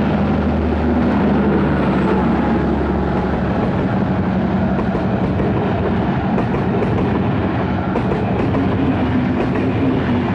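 A train running past close by, with a continuous rumble of wheels on rails over a steady low engine drone.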